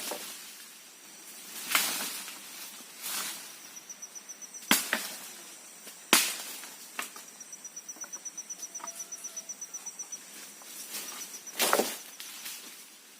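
Wood being chopped by hand: about seven sharp, separate strokes at uneven intervals, the loudest around the middle. A high, rapidly pulsing insect call sounds in the background.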